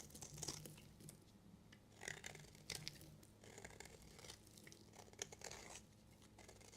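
A knife cutting through a bar of soap: quiet, crisp scraping and crunching strokes in about four short runs.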